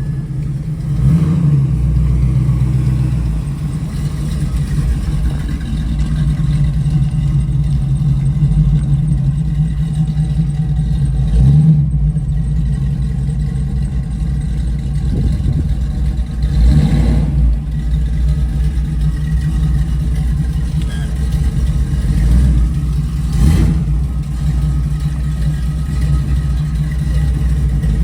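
Car engines running at idle, with a few short revs spread through.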